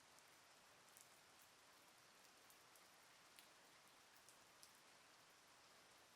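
Light rain falling, a faint steady hiss with a few separate drops ticking now and then.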